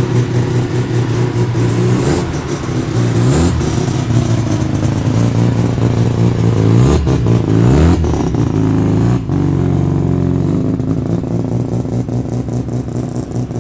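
Performance car engine running loudly at low revs as the car pulls away, with the pitch rising in a rev about seven to eight seconds in.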